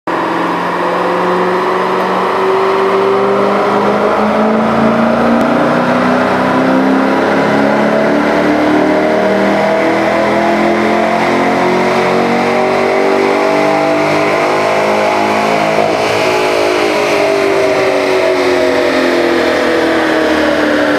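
Stock 2012 Corvette Grand Sport's LS3 V8 making a full-load dynamometer pull, its pitch rising slowly and steadily for about fifteen seconds. Then it falls away as the engine winds back down.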